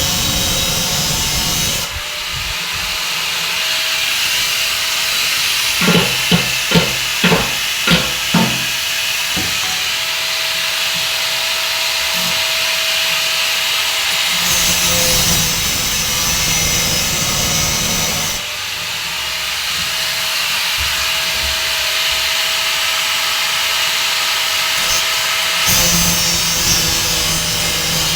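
Workshop sounds from replacing washing-machine drum bearings: a steady noise of tool work that changes character a few times, with a quick run of about six hammer blows some six to eight seconds in.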